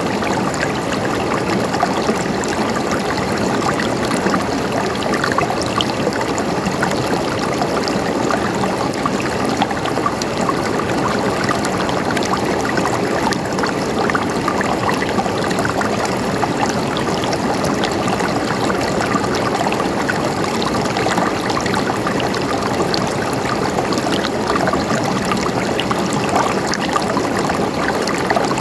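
Flowing water gurgling steadily, like a small stream, with many tiny splashes and no change throughout.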